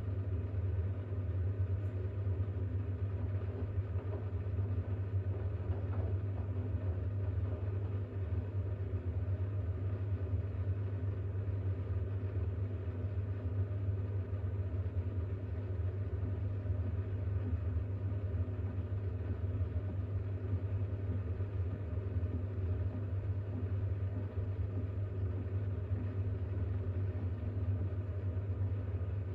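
Bosch WAX32GH1 front-loading washing machine running steadily with a low hum, in its drain-and-distribute phase, where the load is still too unbalanced for the spin to start.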